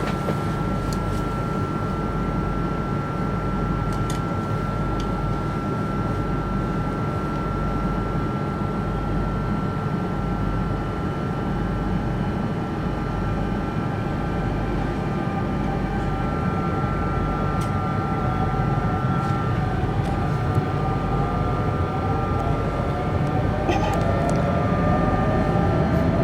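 Double-deck electric suburban train running, heard from on board: a steady rumble with a constant high hum, and a motor whine rising in pitch over the last several seconds as it picks up speed.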